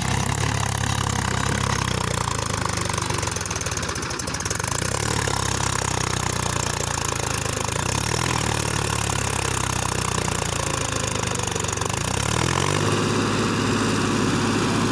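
Mahindra tractor's diesel engine running steadily, its note changing and rising slightly near the end.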